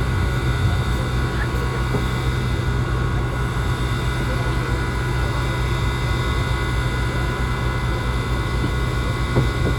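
Steady engine drone from a running vehicle or machine, with a strong low hum that does not change.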